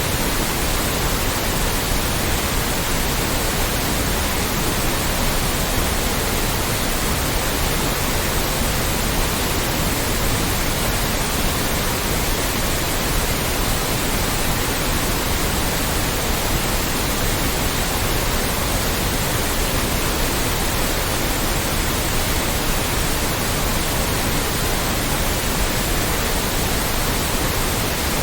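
Loud, steady white noise: an even hiss spread from low to high pitches that never changes.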